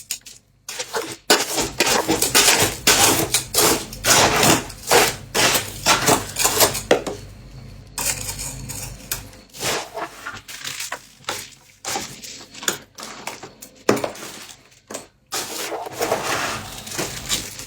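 Freezer frost crunching and crackling in long runs of quick, crisp strokes, the dry snow-like crunch of packed frost being crushed or scraped.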